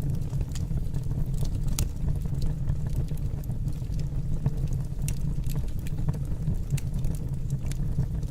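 Fire burning in a fireplace: a steady low rumble of the flames, with scattered sharp crackles and pops.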